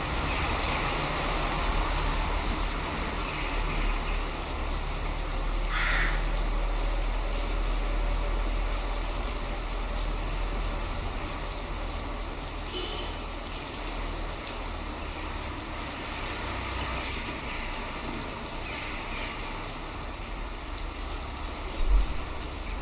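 Steady outdoor noise of rain with wind rumbling on the microphone, and a crow cawing, the clearest call about six seconds in, with a few fainter calls later.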